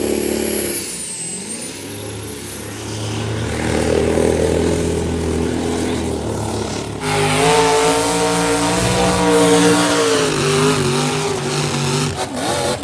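Vehicle engines running and revving. In the first seconds the engine's pitch dips and then climbs again. About seven seconds in there is a sudden cut to a louder engine holding a fairly steady, slightly wavering note.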